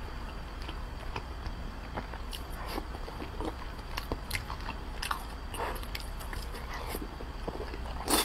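Close-miked chewing of soft, saucy braised pork: irregular wet mouth clicks and smacks, with a louder smack near the end.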